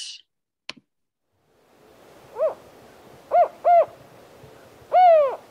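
Mexican spotted owl song from a field recording: four hoots, first a single one, then a quick pair, then a longer last hoot that falls in pitch, over a faint hiss.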